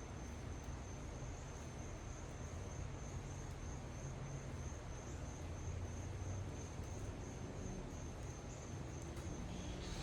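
Insects trilling outdoors: one continuous, slightly pulsing high-pitched trill that never stops, over a steady low background rumble.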